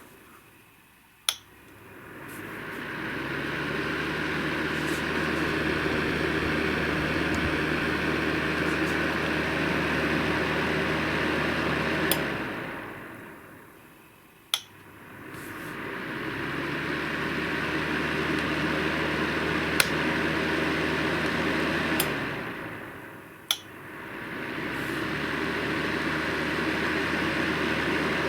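Aceline FH 2000B electric fan heater blowing steadily with a low motor hum. Twice it is clicked off and the fan winds down over about two seconds; three times a click is followed by the fan spinning back up to full speed within about two seconds.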